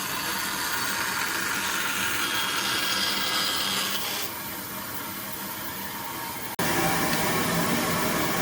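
Power tool working wood, a steady noise with a faint motor hum. It grows quieter for a couple of seconds, then cuts abruptly about six and a half seconds in to a louder, fuller running sound.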